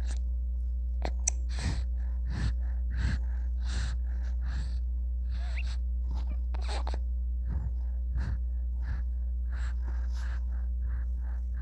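A baby's short breathy gasps and sniffs, repeated irregularly about once or twice a second, over a steady low hum.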